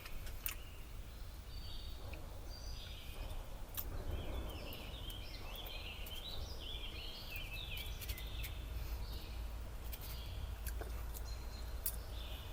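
Birds chirping and warbling over a steady low background rumble, with a few scattered small clicks.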